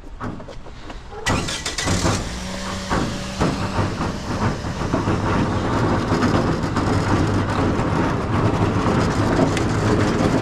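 A vehicle engine running with a steady low hum, under loud rattling and scraping noise that starts about a second in.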